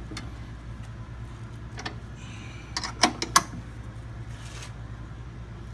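Metal clinks of a wrench on a newly installed refrigeration compressor's mounting bolts as they are snugged down: a few sharp, separate clicks, the loudest two close together about three seconds in, over a steady low hum.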